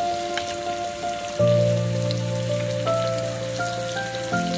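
Chicken kababs sizzling in oil on a tawa, a steady hiss with small crackles. Under it runs background music of sustained chords that change about a second and a half in and again near the end.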